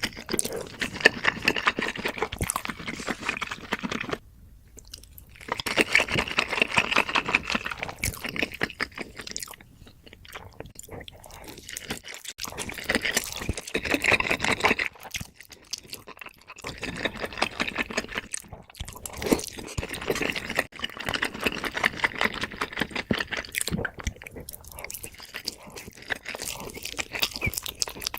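Close-miked chewing and crunching of food, with dense crackly bites coming in bursts and short pauses between mouthfuls.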